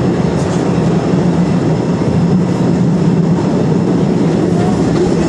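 Postojna Cave's narrow-gauge tourist train running steadily along its rails, heard from on board: a continuous low rumble of wheels and carriages with a steady low hum.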